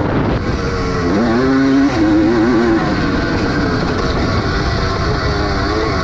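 Vintage 250 cc motocross bike's engine heard on board during a race: the revs drop at the start, climb again about a second in and hold briefly, then the rider backs off and the engine runs lower for the rest, over a steady rushing noise.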